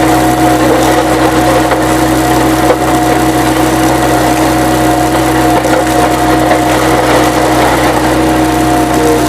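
An engine running steadily at a constant speed, with a steady hum.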